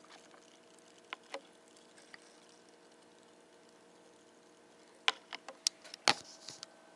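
A quiet room with a few faint clicks and light taps: two a little over a second in, then a quick cluster of sharper clicks and knocks from about five to six and a half seconds in.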